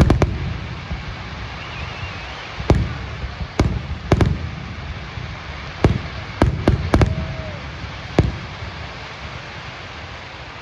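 Aerial fireworks shells bursting in sharp, irregular bangs, about a dozen in all, each trailing a short low rumble. There is a quick cluster at the start, single bangs through the middle, and another cluster about six to seven seconds in, all over a steady low background rumble.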